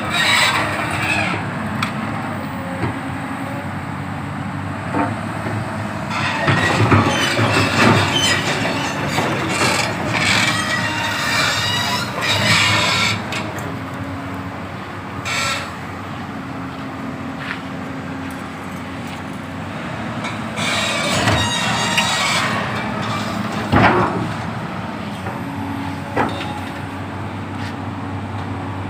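Komatsu PC200-7 excavator's diesel engine running steadily, with several louder noisy stretches over it and one sharp metallic knock late on.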